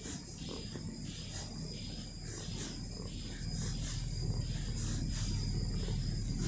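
Stockholm metro train running, a low rumble that grows louder through the second half, with a faint high hiss coming and going about once a second.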